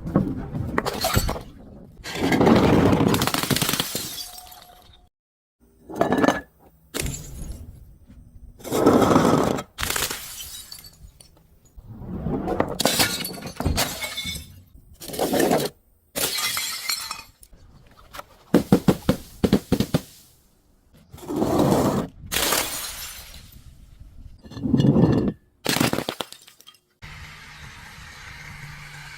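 Glass bottles breaking and being crushed: about a dozen separate crashing, crunching bursts with brief silences between them. Near the end a steady low hum takes over.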